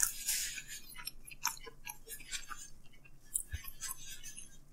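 A person chewing a large mouthful of pizza with the mouth closed: soft, wet mouth clicks and smacks at an irregular pace.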